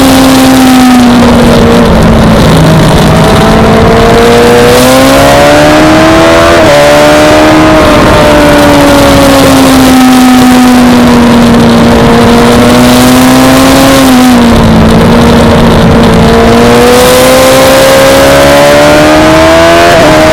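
Suzuki GSX-R600 inline-four engine at high revs on a race track, its note falling and rising several times as the bike slows for corners and accelerates out of them.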